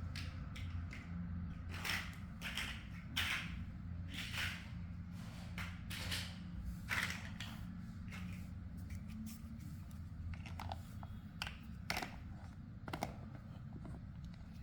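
Plastic building blocks being handled and pressed together: irregular clicks and short scrapes, over a low steady hum.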